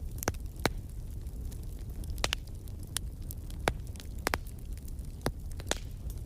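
Wood fire in a fireplace crackling, with irregular sharp pops and snaps, about ten in a few seconds, over a steady low rumble of the flames.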